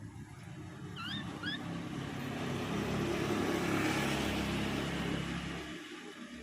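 A motor vehicle passing by, its engine and road noise growing to loudest about four seconds in, then fading away. Two short rising chirps sound about a second in.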